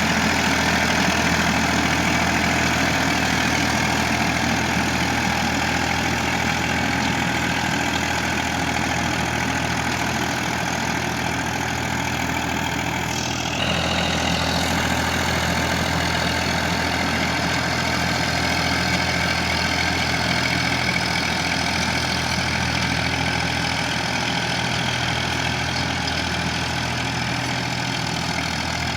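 Massey Ferguson tractor's diesel engine running steadily at a constant speed. There is a brief change in the sound about halfway through, after which it runs on as before.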